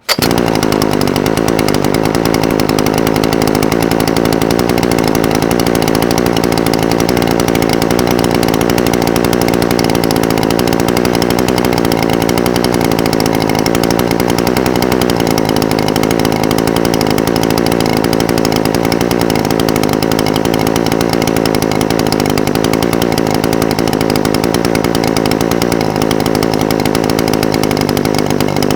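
Echo SRM-420TES brush cutter's two-stroke engine idling steadily, with an even, unchanging pitch. It cuts in abruptly at the start.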